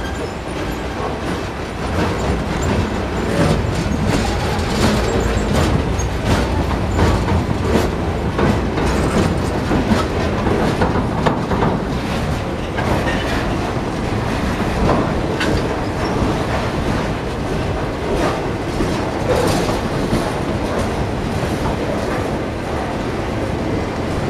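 Norfolk Southern freight train's flatcars and container cars rolling past close by: steel wheels running on the rails with a steady rumble and a run of irregular clicks and clanks over the rail joints.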